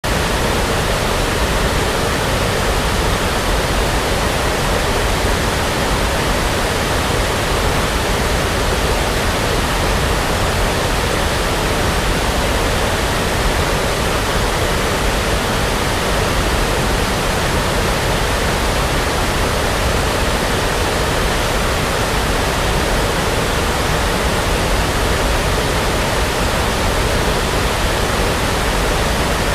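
Steady synthetic brown noise for sleep: an even, unbroken hiss with a low rumble, holding a constant level with no changes.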